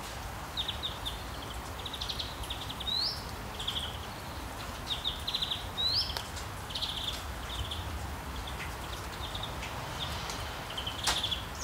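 Birdsong ambience: small birds chirping in short repeated trills, with a couple of quick rising whistles, over a steady low outdoor hiss. There is a sharp click near the end.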